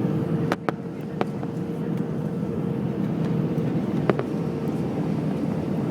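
Airbus A320 cabin noise during landing: a steady hum of engines and airflow with a constant tone, broken by a few sharp clicks or rattles, most in the first second or so and one about four seconds in.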